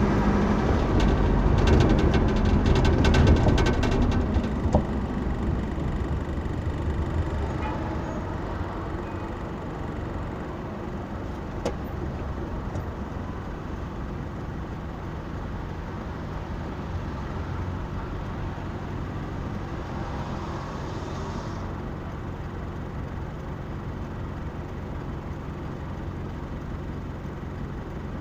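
Motor vehicle running with a steady low rumble, louder with clicks and rattles for the first few seconds, then settling into an even, quieter hum.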